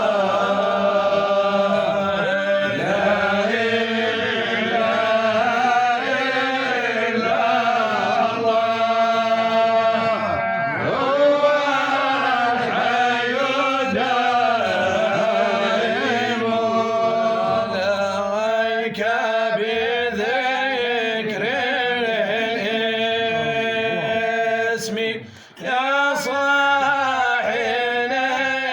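Male voice chanting an Arabic Sufi devotional poem in slow, drawn-out melodic lines, with a short break about 25 seconds in.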